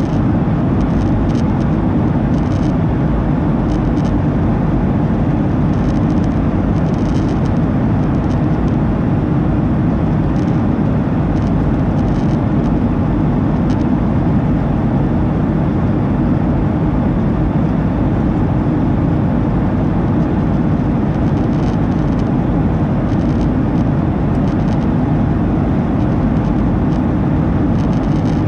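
Steady low roar inside the cabin of a Boeing 737-800: its CFM56 jet engines and the airflow over the fuselage, unchanging throughout.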